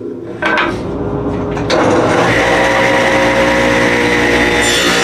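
Electric power saw starting up about half a second in and running at full speed from about two seconds, a steady whine, to rip a 2x4 down to 1 inch thick. Near the end a hissier sound joins as the blade bites into the wood.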